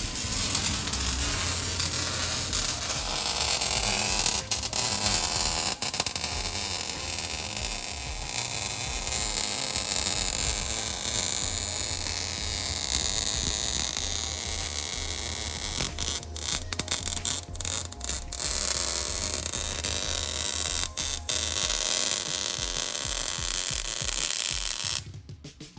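Welding on a car's exhaust pipe: a steady hiss and crackle with a low hum beneath, and a cluster of sharp clicks about two-thirds of the way through.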